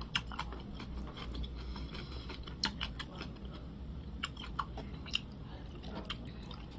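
A person chewing a mouthful of kimchi and glass noodles close to the microphone, with irregular wet smacks and clicks of the lips and mouth.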